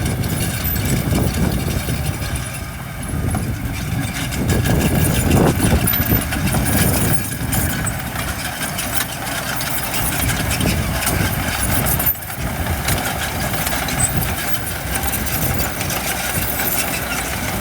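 Diesel engine of heavy construction machinery running with a rough low rumble, growing louder for a few seconds around the middle.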